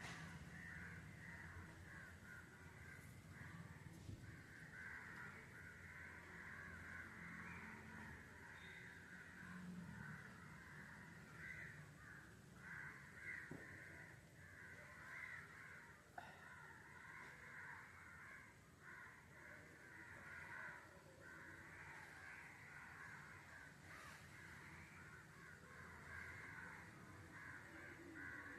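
Faint chorus of many birds calling without pause.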